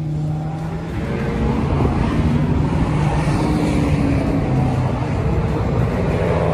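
A V8 car engine running hard on a racetrack, its pitch rising and falling.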